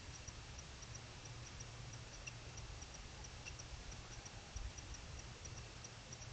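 High, short chirps from a small creature, mostly in pairs and repeating a few times a second, over a steady low rumble.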